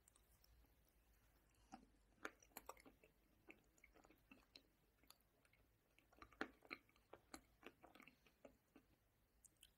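Close-up, quiet mouth sounds of chewing a mouthful of ice cream with chopped nuts and marshmallows: an irregular run of soft crunches and wet clicks that begins about two seconds in.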